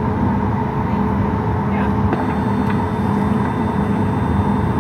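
Steady airliner cabin noise inside a Boeing 737 MAX 8: a constant rush of air with a hum and several faint steady whining tones.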